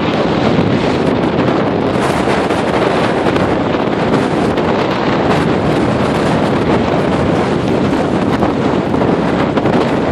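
Gale-force wind buffeting the microphone, loud and continuous, with lake waves surging beneath it.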